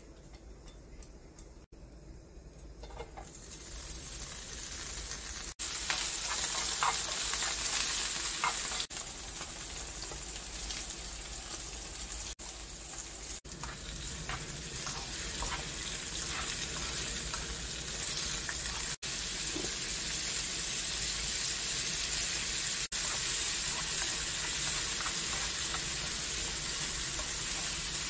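Squid and green onion sizzling in hot oil in a nonstick frying pan while being stirred with a wooden spatula. The sizzle comes in about three seconds in and holds steady, with light scrapes and taps of the spatula in the pan.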